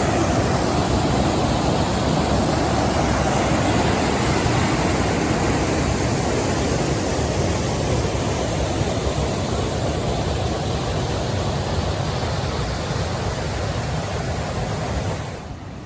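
Small waterfall on a creek: water rushing in a steady, loud hiss that drops away suddenly near the end.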